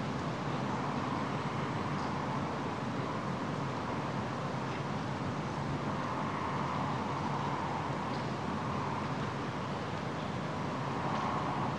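Steady, even vehicle drone, a noisy rush with no clear beat or tune.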